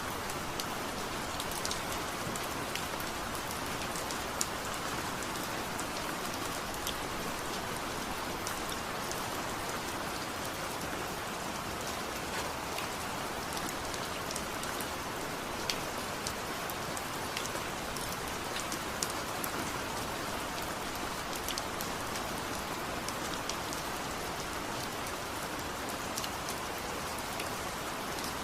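Steady rain falling, with many scattered individual drops ticking against a surface.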